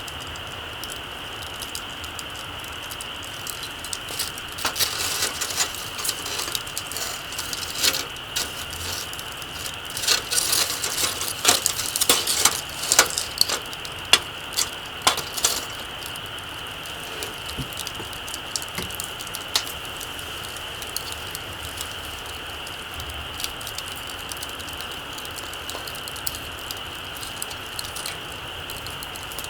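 Small wood campfire crackling, with irregular sharp pops that come thickest in the first half, over a steady high-pitched hiss.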